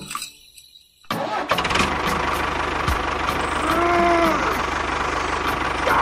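A tractor engine starts about a second in and runs steadily with a fast, even chug. A short tone rises and falls in pitch about four seconds in.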